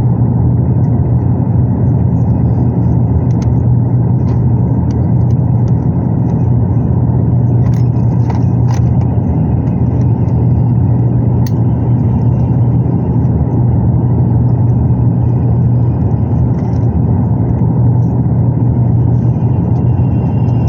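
Steady airliner cabin drone of an Airbus A350-900 in flight: the low rushing hum of engines and airflow, constant throughout, with a few faint clicks.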